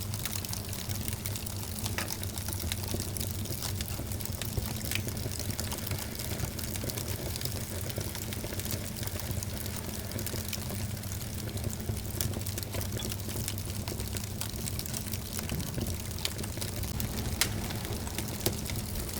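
Wood fire burning in a fireplace: a steady hiss and low rumble of flames with frequent sharp crackles and pops.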